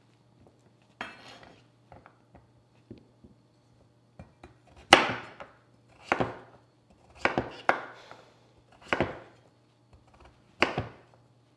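Kitchen knife chopping on a cutting board: a few light knocks, then heavy single chops about a second apart.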